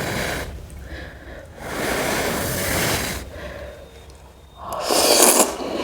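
Noodles being slurped: three long, noisy draws, each lasting about a second.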